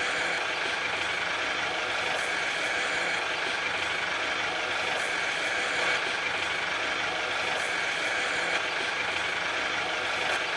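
A vehicle engine running steadily, a constant drone with no breaks.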